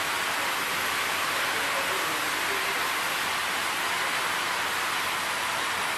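Steady, even hiss with no distinct knocks or clicks.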